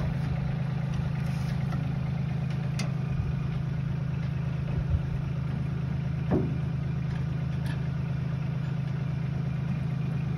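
An engine idling steadily, with a few light metallic knocks and clicks over it, the clearest about six seconds in.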